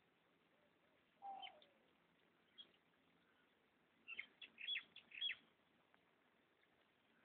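Bird chirping over a faint background hiss. There is one call with a falling note about a second in, a single short chirp, then a quick run of about six short high chirps around four to five seconds in.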